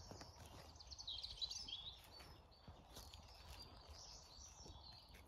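Faint songbirds singing: a quick run of high chirping, trilling notes about a second in, then scattered calls, over a faint low rumble.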